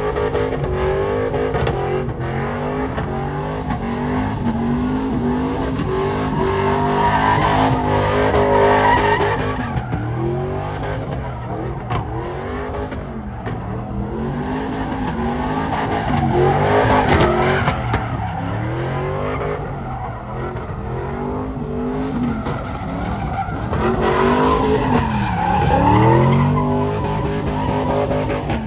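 Vehicle engine revving up and down over and over, with tyres squealing and skidding, as in burnouts or donuts.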